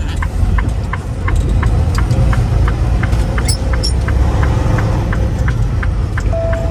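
Semi-truck's diesel engine running with a steady low rumble, heard from inside the cab. Over it comes a fast regular ticking, about four ticks a second, and a short beep near the end.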